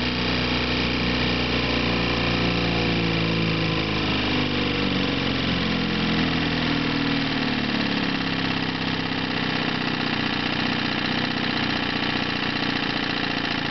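1955 Johnson CD-12 5.5 hp two-stroke twin outboard motor being throttled back from mid-range: its pitch falls steadily over the first six or seven seconds, then it settles into a steady idle.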